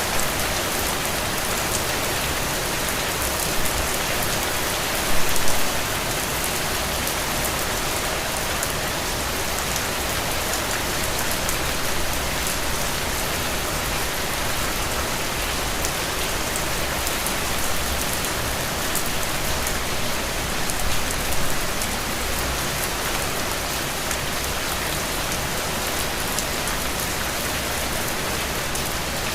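Steady rain falling, a dense even hiss dotted with sharp drop ticks, with brief louder swells about five seconds in and again around twenty-one seconds.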